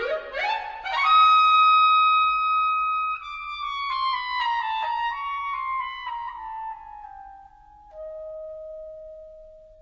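Orchestral music with one wind instrument playing alone. It climbs quickly to a long high note, comes down step by step, and settles on a long lower note that fades away.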